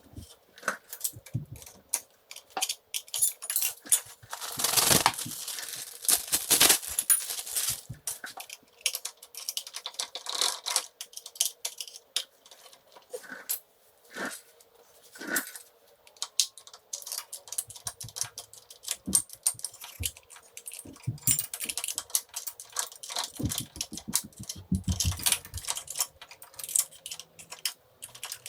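Small metal parts clinking, tapping and scraping irregularly as the clutch pack of a BSA B33's primary drive is taken apart by hand, with a cluster of louder clatters a few seconds in.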